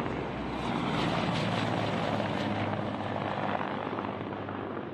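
Helicopter flying, a steady rotor and engine noise.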